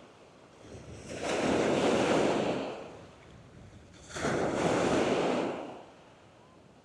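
Waves breaking and washing up the beach, two surges about three seconds apart, each building and then fading away.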